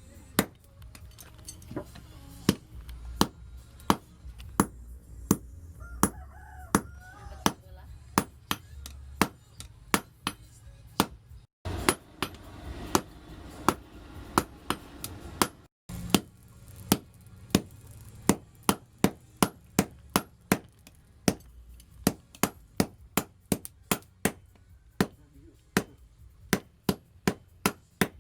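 Hand hammer forging leaf-spring steel on an anvil: a long series of sharp metallic strikes, about one to two a second at first and quicker, over two a second, in the last several seconds.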